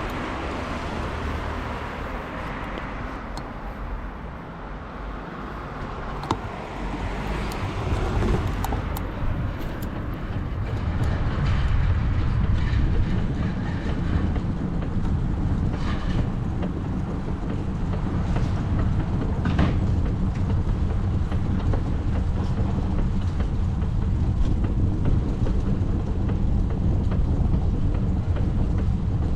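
Steady rumbling road noise of a bicycle ride on city streets, growing heavier and louder about a third of the way in, with a few faint clicks.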